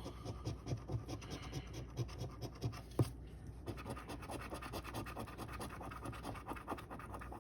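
Scratching the coating off a paper lottery scratch-off ticket: a quick run of short scrapes, with one sharper tick about three seconds in.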